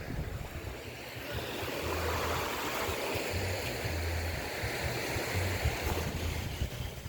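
Ocean waves washing onto a sandy beach, a rushing surge that builds about a second in and eases near the end, with wind buffeting the microphone.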